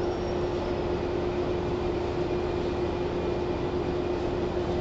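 Inside a JR 413 series EMU car (KuMoHa 413) after arrival: the onboard equipment hums steadily, with one constant mid-pitched tone over an even background rumble and no change in speed.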